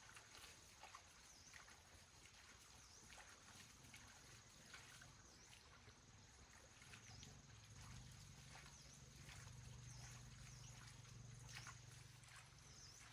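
Near silence: faint outdoor ambience with a steady high thin tone and scattered soft clicks, and a faint low hum that swells a little past the middle.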